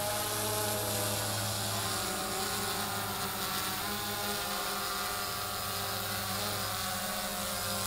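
DJI Phantom 2 Vision quadcopter in flight, its four motors and propellers giving a steady buzzing whine whose pitch shifts slightly a few times as it manoeuvres.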